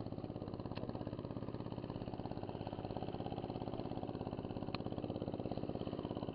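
Small engine idling steadily with an even, rapid pulse, with a couple of faint ticks over it.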